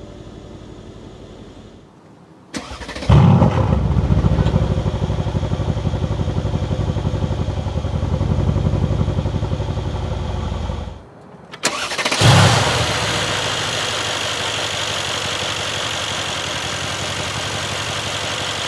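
Mercedes-AMG C63 S's 4.0-litre twin-turbo V8 started up: a loud flare about three seconds in that settles into a steady idle, heard from behind the exhaust tips. After a short break, a second start flare settles into a steady idle, heard at the open engine bay.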